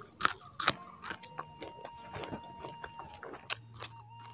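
Close-miked biting and chewing of a raw green chili: three sharp, crisp bites in the first second, then a run of smaller wet chewing clicks. A faint steady high tone runs underneath.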